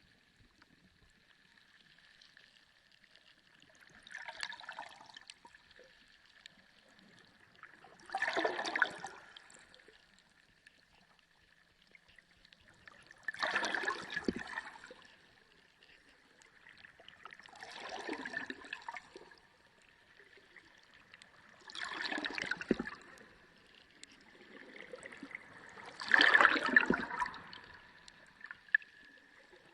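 Underwater sea ambience: six surges of rushing water noise, coming about every four to five seconds, the last one the loudest. A faint steady high tone runs underneath.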